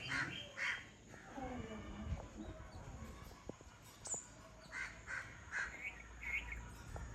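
A bird calling in short repeated calls: two near the start, then a quick run of about five in the second half.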